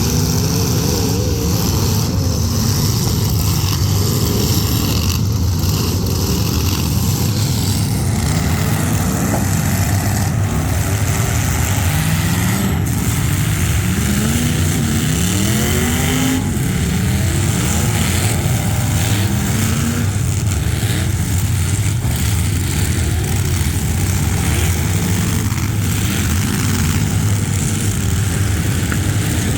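Full-size demolition derby cars' engines running and revving, with pitch rising and falling as the cars accelerate, and an occasional sharp knock.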